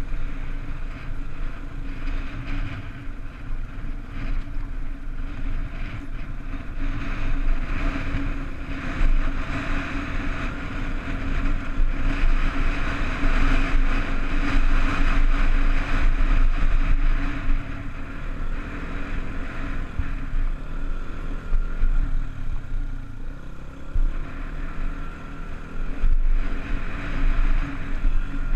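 Honda dirt bike engine running steadily under throttle while being ridden. It gets somewhat louder in the middle stretch.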